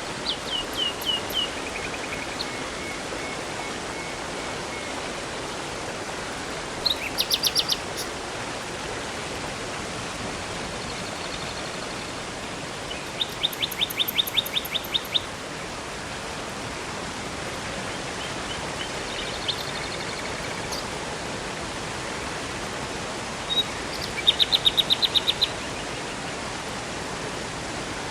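Steady rush of river and waterfall water, with songbirds singing over it. A short falling series of notes comes at the start, then quick trills of rapidly repeated notes about 7 s, 13 s and 24 s in.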